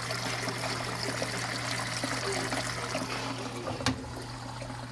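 Miele W 759 washing machine with water trickling and splashing inside it over a steady low hum, and a single sharp click near the end.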